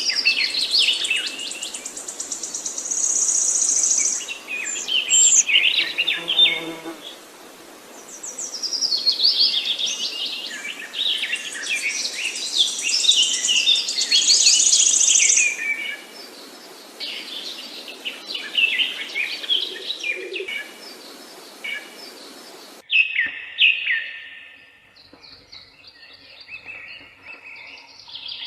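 Many songbirds chirping and trilling at once, a dense chorus over a steady background hiss. About 23 seconds in, the recording cuts abruptly to fewer, quieter chirps.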